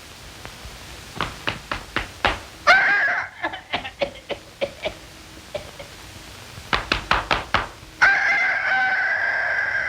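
Film sound effects: bursts of sharp knocks and taps, broken by a short pitched tone like a horn, then a held, slightly wavering horn-like tone about two seconds long that cuts off suddenly.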